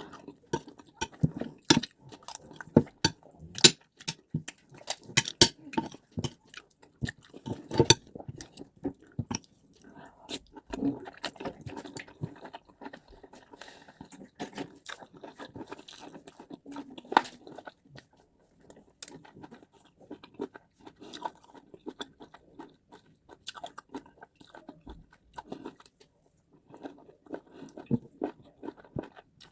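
Close-miked chewing of white rice and stew: wet, smacking mouth sounds with sharp clicks, busiest in the first third and again near the end.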